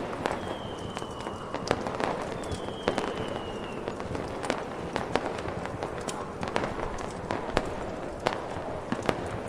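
Mixed fireworks, fireplace and snowstorm ambience: irregular sharp cracks and pops over a steady rushing noise, with two faint slightly falling whistles in the first few seconds.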